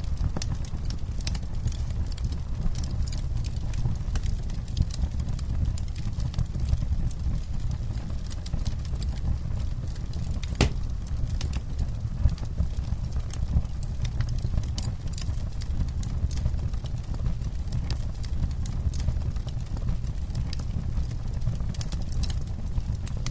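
Campfire crackling: frequent sharp pops and snaps over a steady low rumble, with one louder pop about ten and a half seconds in.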